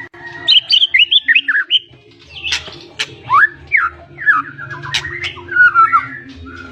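White-rumped shama singing a fast, varied song of quick whistled glides mixed with sharp clicking notes, with a rapid run of short repeated notes near the end.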